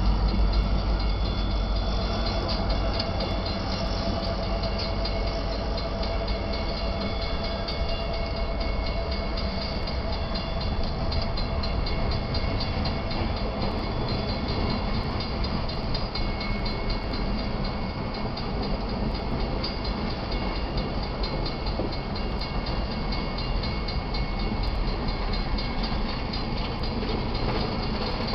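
Freight cars of a Union Pacific manifest train rolling past with a steady rumble and wheel clatter. The heavier low rumble of the locomotives fades over the first couple of seconds.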